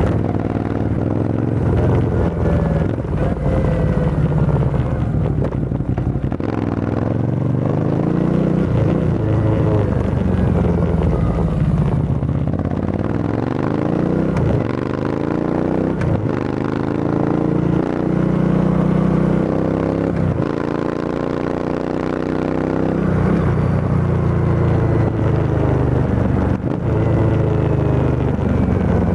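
Motorcycle exhaust through an Arrow full system with the dB killer removed, the bike being ridden. The note climbs in pitch as it accelerates and drops back at each gear change, several times over.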